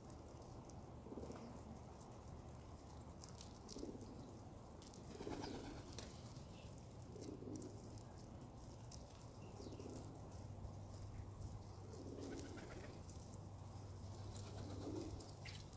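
Pigeons cooing faintly: a low coo repeats every second or two, about eight times, with faint scattered ticks.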